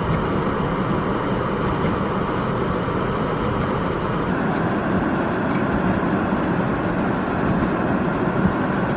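Steady rushing noise of blizzard wind mixed with vehicle traffic on snowy roads, with no clear events standing out.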